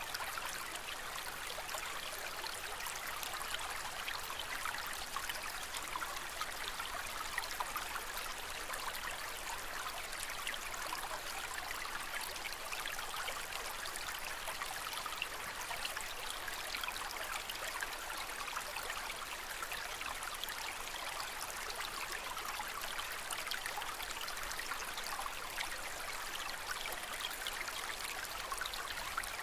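Aquarium water trickling and splashing steadily, an even gentle water sound.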